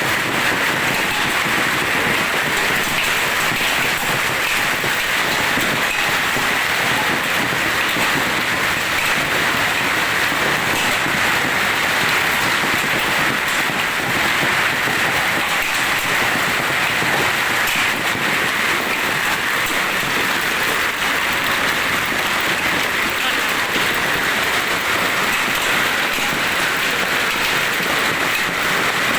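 Heavy rain pouring down and hitting surfaces, a loud, steady, dense hiss with no letup.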